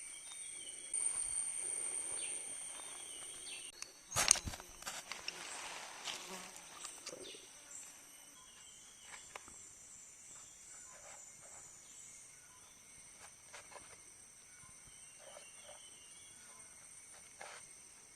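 Rainforest insects buzzing and trilling in a steady, high-pitched chorus. A sharp knock comes about four seconds in, and a few faint clicks follow.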